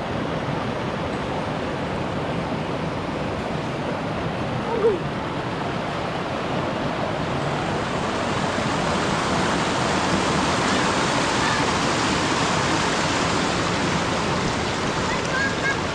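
Steady rush of a stream flowing over rocks, a little louder from about halfway through, with a brief sharp sound about five seconds in.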